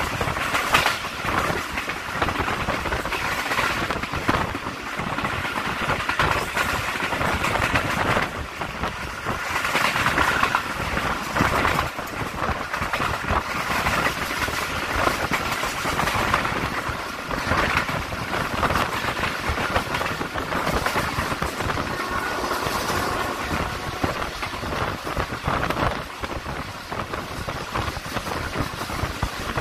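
Awam Express passenger train of Pakistan Railways running at speed: steady rumble and rattle of the coach's wheels on the rails, with many small clacks.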